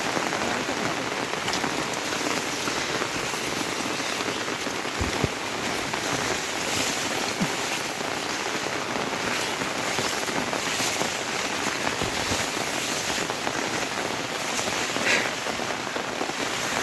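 Steady monsoon rain falling, with a few louder drop hits now and then.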